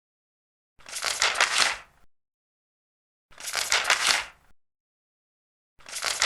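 Large paper pages being turned, three separate page turns about two and a half seconds apart, each a rustle lasting just over a second, with silence between.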